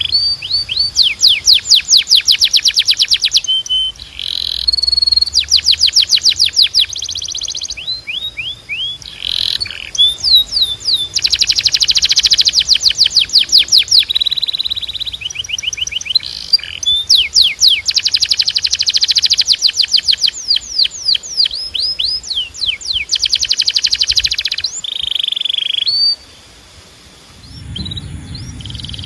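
Canary singing a long song: runs of fast repeated sweeping notes and rolling trills, broken by short held whistles, with a brief pause near the end.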